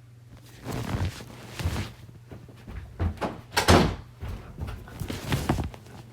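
A run of knocks and thuds, about five clusters spread over several seconds, the loudest near the middle, like a door being banged open and shut. A steady low hum lies underneath.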